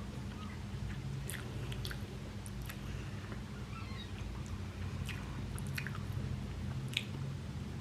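Close-miked mouth chewing soft idiyappam and vegetable korma. Wet clicks from the lips and tongue come at irregular intervals over a steady low hum.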